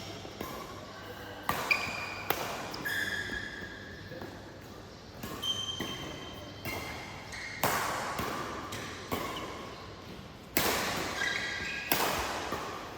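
Badminton rally: sharp racket hits on the shuttlecock about every one to one and a half seconds, echoing in a hall, with short high squeaks of court shoes between them.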